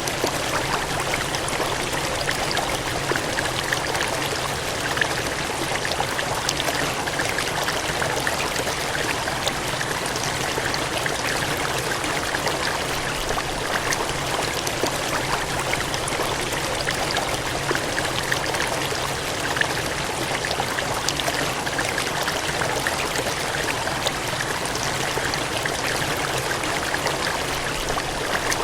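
Gushing, cascading water: a steady, unbroken rushing hiss with no change in level.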